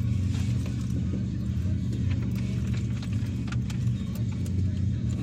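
Car engine running, heard from inside the cabin as a steady low hum, with a few faint clicks and knocks.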